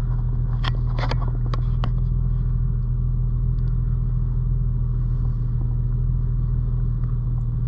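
2007 Porsche 911 Turbo's twin-turbo flat-six idling steadily after a cold start, a constant low hum. A few sharp clicks sound in the first two seconds.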